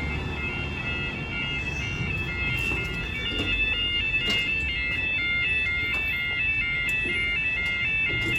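Level crossing audible warning alarm sounding continuously as a regular alternating two-tone warble, with faint traffic rumble under it.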